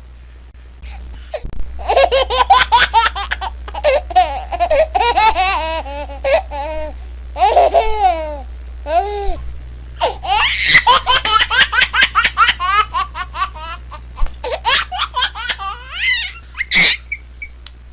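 A baby laughing in rapid pulsed bursts of high-pitched giggles and squeals, in two long runs separated by a short pause, with a steady low hum underneath.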